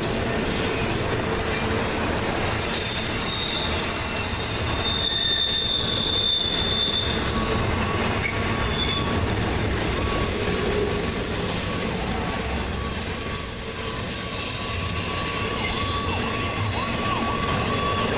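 Cars of an intermodal freight train rolling past with a steady rumble of wheels on rail, wheel flanges squealing in thin high tones that come and go.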